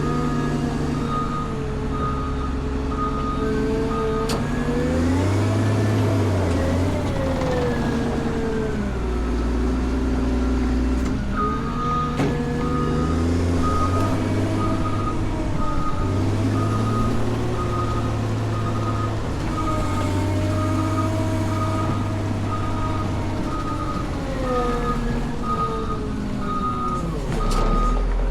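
Caterpillar 140M motor grader's diesel engine running under load, revving up and down several times, with its reversing alarm beeping steadily while the machine backs up, first briefly at the start and again through the second half.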